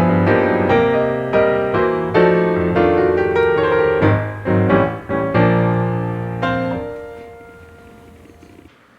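Background piano music, a slow run of chords that fades out over the last couple of seconds.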